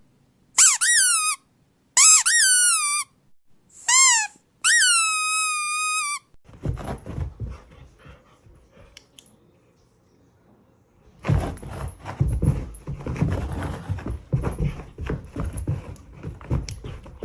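A run of five loud, high-pitched squeaks, each rising and then falling in pitch, the last one drawn out longer, like a squeaky dog toy being squeezed. After about six seconds come quieter scuffling and rustling noises with small knocks, which grow louder from about eleven seconds in.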